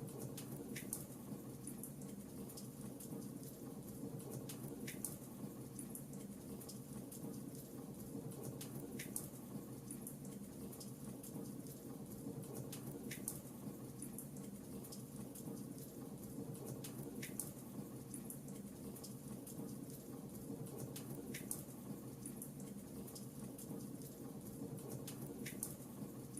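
Wood fire crackling in a fireplace: a steady low rush with many small crackles and a sharper pop about every four seconds.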